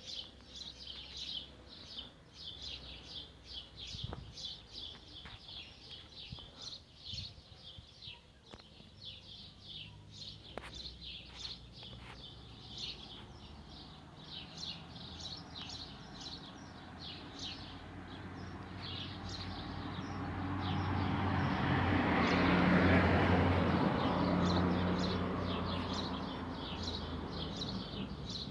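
Small birds chirping rapidly, many short high chirps several a second, thinning out after the first half. A rushing noise with a low hum swells up over several seconds, peaks a little past the middle of the second half, and fades again.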